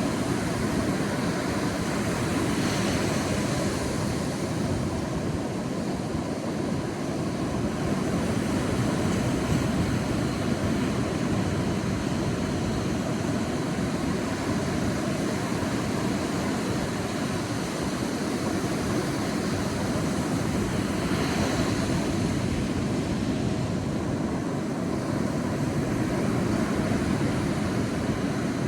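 Sea waves on a beach, a steady rushing surf, with two waves breaking more brightly about three seconds in and again about twenty-one seconds in.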